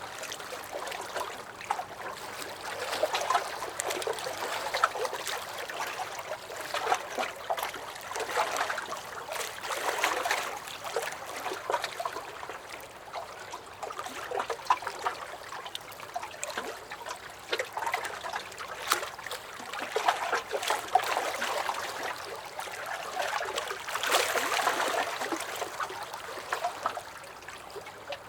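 Small lake waves lapping and sloshing against a dock, swelling and ebbing irregularly every few seconds, with many small sharp splashes and drips.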